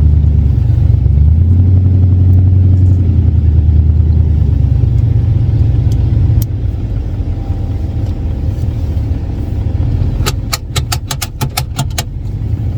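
Turbocharged Lincoln Town Car engine pulling away under acceleration: a loud low drone that rises in pitch about a second in, then eases off to a quieter cruise about six seconds in. Near the end comes a quick run of about ten sharp clicks.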